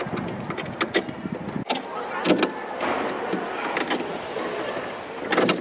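Hands working plastic washer hoses into place: rustling and scraping with a string of sharp clicks and knocks.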